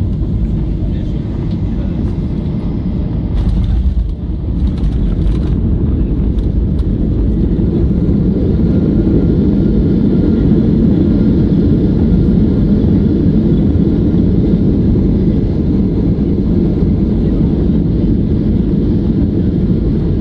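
Inside the cabin of a Boeing 737-800 during landing: a steady, loud low roar of engines and airflow, with a few sharp rattles about four seconds in, after which the roar grows louder and stays up.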